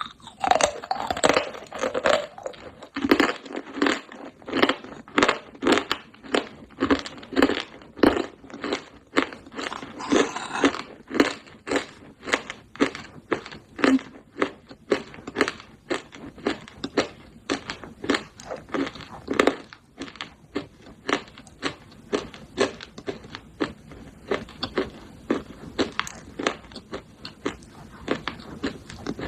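Pieces of roasted clay pot being bitten and chewed close to the microphone: a long, even run of crisp crunches, one after another, about two a second.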